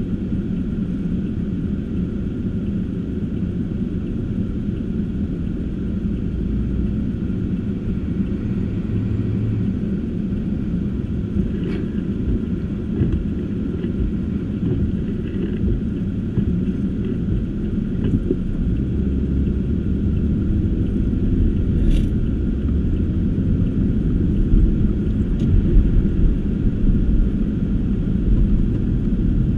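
A car driving, with a steady low rumble of engine and tyres throughout and a few faint clicks, the clearest about twelve and twenty-two seconds in.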